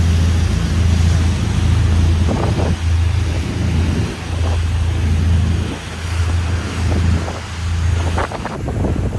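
Tour boat's engine running with a steady low hum, under wind noise on the microphone and the rush of water. The hum drops out near the end.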